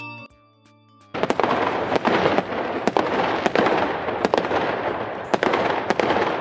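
Firework crackle sound effect that starts suddenly about a second in: a dense crackling hiss with many sharp pops and bangs.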